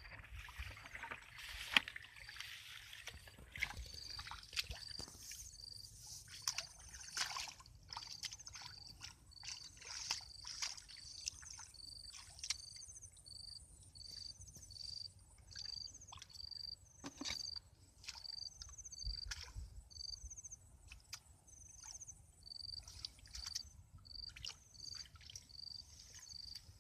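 Water sloshing and splashing in short scattered bursts, as if disturbed by hand or paddle. Over it, a short high chirp repeats steadily about twice a second.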